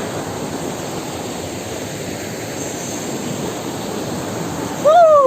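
Waterfall: a steady rush of falling water. Near the end a voice calls out once, falling in pitch.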